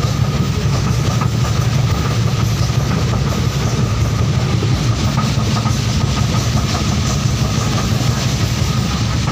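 Indian Railways passenger coach running along the line, heard from inside the carriage: a steady low rumble of wheels on rails with constant rattling clatter.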